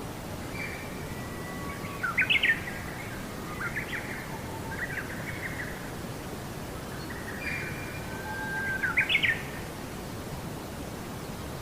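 A songbird singing two similar phrases about six seconds apart, each of level whistled notes ending in a few quick, sharp high notes, over a steady background hiss.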